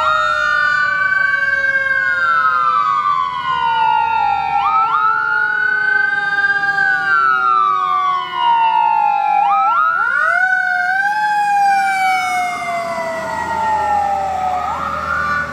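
Fire truck sirens wailing on an emergency response: one siren rises quickly and falls slowly in cycles about every five seconds, while a second siren tone slowly falls underneath. About ten seconds in there is a short burst of fast warbling.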